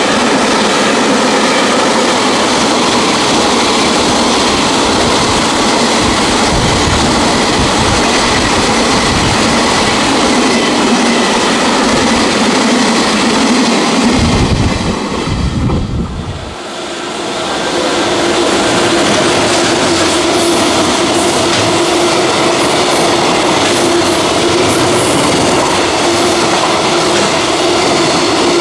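Freight train wagons running past at speed, with a loud steady rush and rattle of wheels on rail. About sixteen seconds in the sound dips briefly and changes, the deep rumble dropping away and a steady high wheel tone carrying on.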